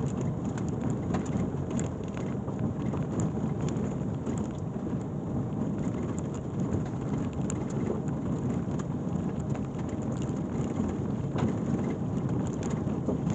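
Steady heavy rain, a dense even hiss with many small drop ticks through it and a deep rumbling undertone.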